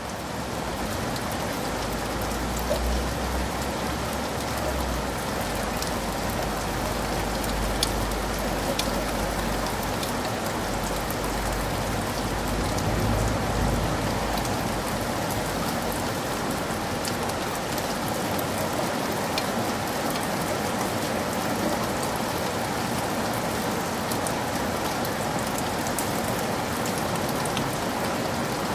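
Heavy rain falling steadily on a forest, a dense even hiss with sharp ticks of single drops hitting close by. A low rumble lies under it for the first half and fades out about halfway through.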